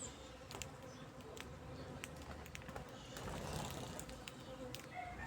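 Birds feeding: scattered light clicks and taps of beaks pecking at food, with a faint steady hum underneath.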